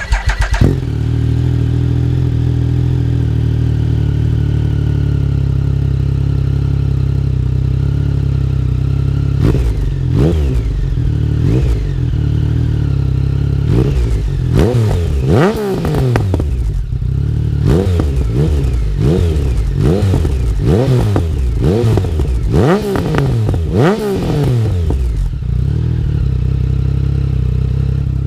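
2016 Triumph Speed Triple R's three-cylinder engine breathing through a full Arrow titanium 3-into-1 exhaust with the baffle removed, starting up and idling. About ten seconds in it is blipped in a string of quick revs, each rising and falling, then it settles back to idle.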